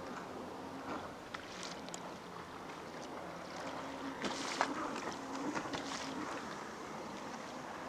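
Water splashing and lapping against the hull of an inflatable sit-on-top kayak moving along under pedal drive, with scattered small splashes and the sharpest about four and a half seconds in.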